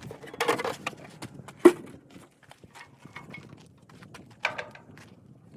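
Irregular clinks, clatter and knocks of hand tools and metal parts being handled while working on a small engine, with one sharp knock about a second and a half in.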